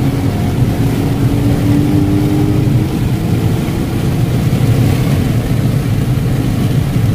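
Dodge Charger Daytona 392's 6.4-litre Hemi V8 pulling hard at full throttle, a deep steady rumble heard from inside the cabin with the windows cracked open, as the car accelerates from about 80 to over 100 mph.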